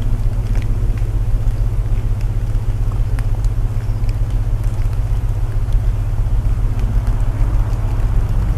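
A layered sleep soundscape: a steady low hum of binaural tones under the hiss of rain, with scattered crackles from burning wood.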